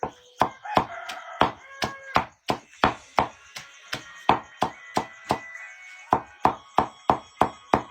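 Rapid chopping on wood: sharp, evenly paced strikes about two to three a second.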